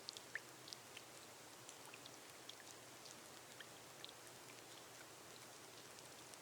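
Gentle rain on a glass roof: a soft, steady hiss with scattered individual drops ticking, a few louder drops in the first second.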